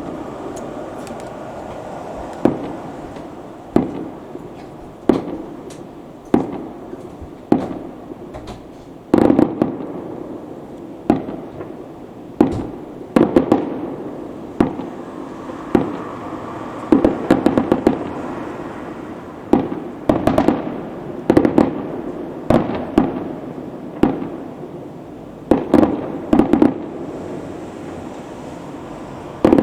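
Fireworks going off in a continuous display: a long run of sharp bangs, about one a second and in quick clusters at times, each echoing away over a steady rumble of more distant fireworks.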